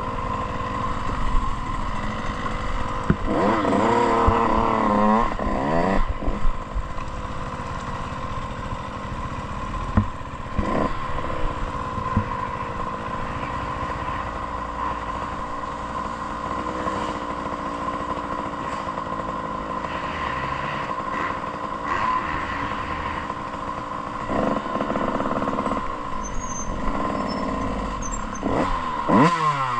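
Motocross bike engine running under changing throttle: the pitch rises and falls as it revs, most clearly a few seconds in and again near the end, over continuous engine and riding noise.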